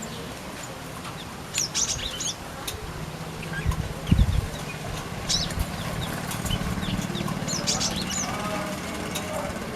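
Small aviary birds giving quick clusters of high-pitched chirps three times, with wing flutters and low thumps about four seconds in. A steady low hum runs underneath from about three seconds in.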